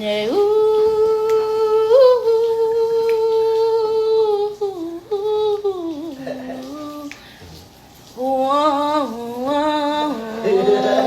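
A young boy singing without words: one long held note for about four seconds that then slides down in steps. After a short pause, a few more sung notes move up and down.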